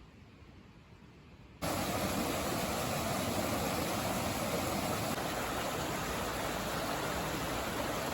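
Faint low background that cuts abruptly, about a second and a half in, to a loud, steady rushing noise, even and without any pitch or rhythm.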